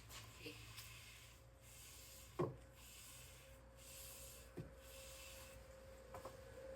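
Wood stain being rubbed onto bare wood with an applicator: faint, repeated hissy rubbing strokes. A sharp knock comes about two and a half seconds in, with a lighter one a couple of seconds later.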